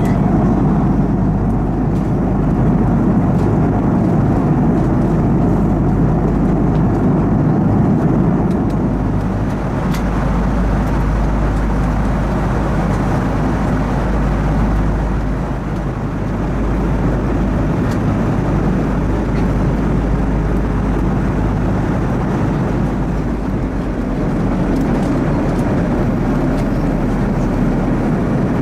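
Steady, rumbling jet engine and airflow noise inside an airliner cabin, with a faint click about ten seconds in.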